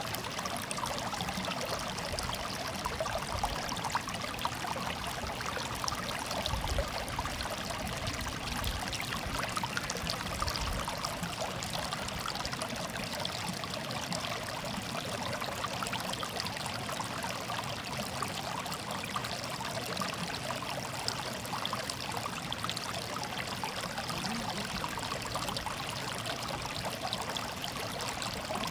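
Shallow stream of water babbling and trickling steadily, a continuous murmur with small splashing detail.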